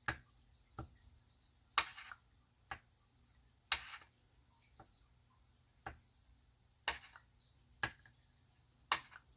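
Marker tip tapping and dabbing on glossy photo paper: about ten faint, sharp taps at irregular intervals of roughly a second, a few drawn out into a short scratch of the tip across the paper.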